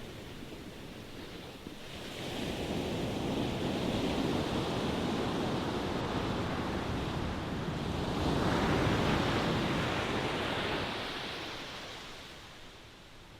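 Ocean waves breaking and washing up the shore: a wave swells in about two seconds in, a second, stronger surge of surf comes just past the middle, and the wash then ebbs away toward the end.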